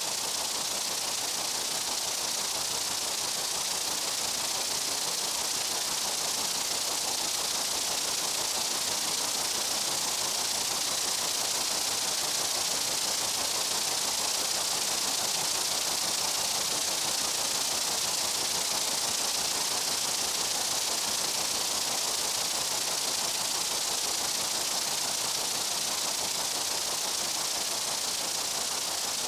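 Steady dense buzzing of many insects blended into one unbroken, hiss-like drone, brightest in the high range, with no single insect standing out.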